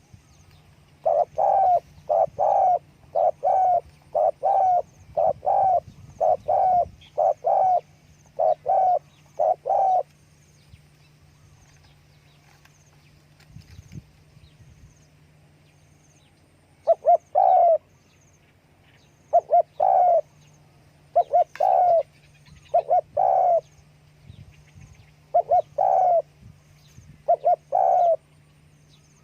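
Spotted dove cooing: short repeated coos, mostly in pairs, in a steady run for about nine seconds, then a pause of several seconds before more paired coos resume.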